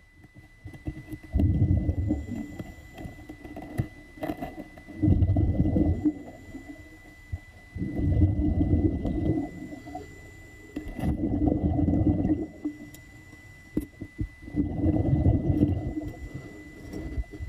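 Muffled, rumbling water sounds in repeated surges about a second long, coming every two to three seconds, with a faint steady high whine underneath.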